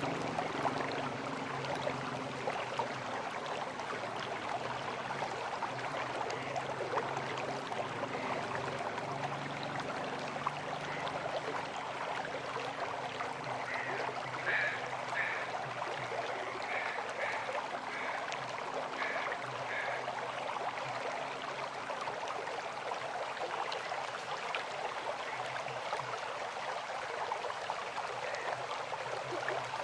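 River water flowing steadily. A low hum runs under it for the first two-thirds and then fades, and a short string of high chirping notes comes about halfway through.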